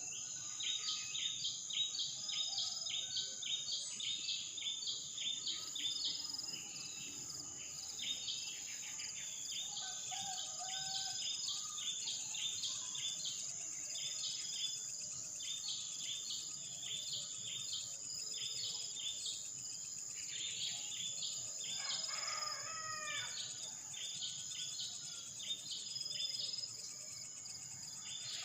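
Birds chirping in rapid, repeated short calls over a steady high-pitched insect drone, with one lower, longer call about two-thirds of the way through.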